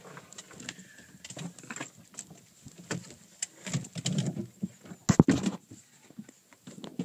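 Irregular clicks, knocks and clatter of a rifle and gear being handled at a shooting barricade, with one sharp, loud bang about five seconds in.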